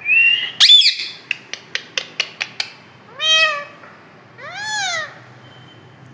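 Pet parrot calling: a short rising whistle, a loud harsh squawk, a quick run of about six clicks, then two meow-like calls that rise and fall, a cat's meow mimicked by the parrot.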